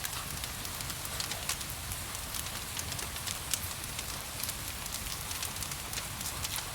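Wood fire crackling, with frequent irregular sharp pops, over a steady hiss of rain.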